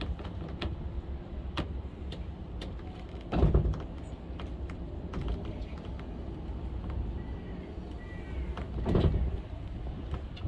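Funicular cliff railway car running on its inclined track: a steady low rumble with scattered light clicks, and two louder bursts about three and a half and nine seconds in.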